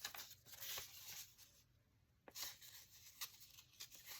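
Faint rustling of paper and cardstock being handled, with a brief pause and a single small click about two seconds in.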